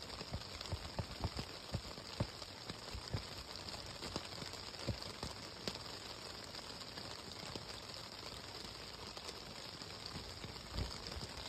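Rain falling on a tent: a steady hiss with irregular drops tapping on the fabric, more frequent in the first half. A single heavier drop or knock near the end.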